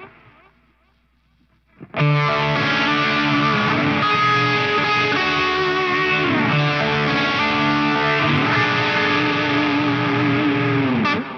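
Distorted electric guitar played through an ambient preset on a Line 6 Helix: a chord fades away, then about two seconds in a new chord is struck and rings on thick and sustained, its pitch dipping downward a few times, before it stops just before the end.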